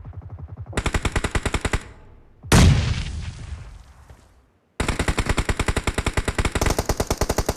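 Rapid automatic gunfire from a shooter video game: a short burst about a second in, then a single loud bang that dies away over about two seconds to a brief silence, and continuous rapid fire from about five seconds on.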